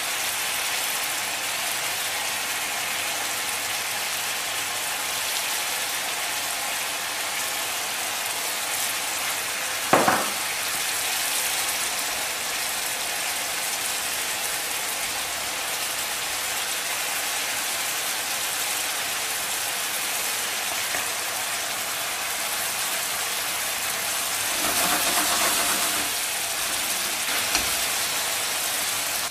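Pork meatballs and pumpkin pieces sizzling steadily in bubbling yellow curry sauce in a wok, with a single sharp knock about ten seconds in. The sizzling grows briefly louder near the end as a spatula stirs the pan.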